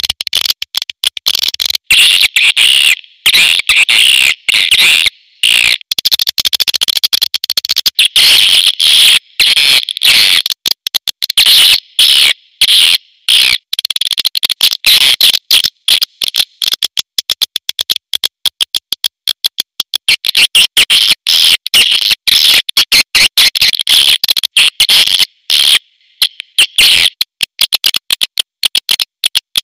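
Swiftlets calling: a loud, dense chatter of rapid high-pitched chirps and twitters, broken by many short gaps. It is the recorded swiftlet call sound played to draw swiftlets into a nesting house.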